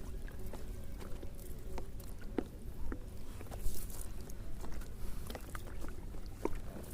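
A fishing net and its catch being handled by the water: scattered small clicks and taps, with a brief louder rustle about four seconds in.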